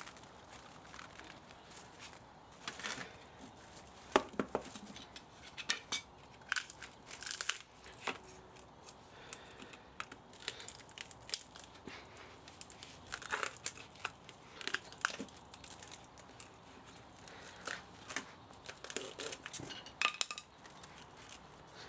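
Irregular scraping, clinking and tearing of hand tools working on a scrapped electric spa motor, with louder sharp clicks now and then.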